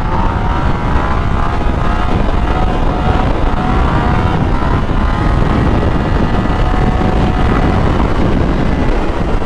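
Motorcycle riding at speed: heavy wind buffeting the microphone over a steady engine note, whose pitch drifts slowly.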